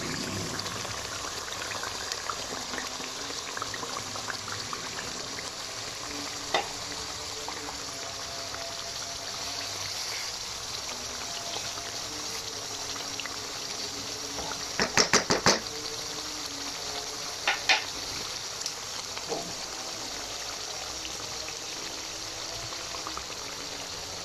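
Spiced onion-tomato masala paste sizzling and bubbling in oil in a nonstick wok as stuffed okra are stirred in with a wooden spatula. A few sharp knocks of the spatula on the pan break the steady sizzle, including a quick run of about five near the middle.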